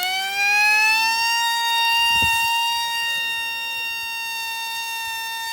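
Small electric motor and propeller of a toy polystyrene plane spinning up with a rising whine, then running at a steady high-pitched whine.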